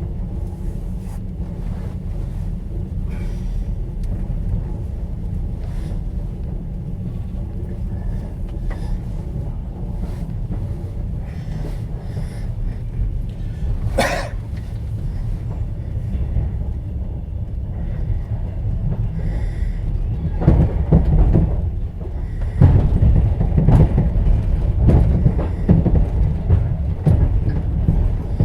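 Inside a moving passenger train's sleeping carriage: a steady low rumble of wheels on the rails. There is a single sharp knock about halfway. In the last third it grows louder, with repeated knocks of the wheels clattering over the track.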